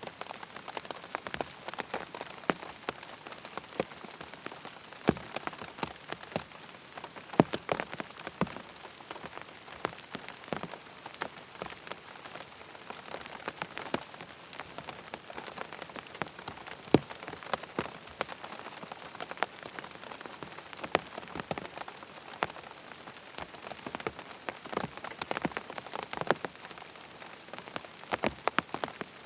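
Steady rain falling on a surface, with many sharp, irregular drop ticks over an even hiss; a few ticks are louder than the rest.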